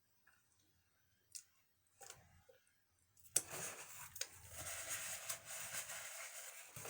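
Paper takeout packaging crinkling and rustling as it is handled and opened, starting about three seconds in after a few faint clicks.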